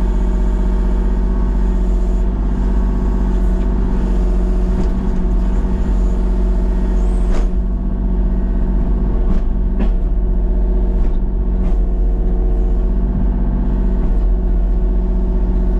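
Tractor engine running steadily at a constant speed, with a few sharp knocks partway through.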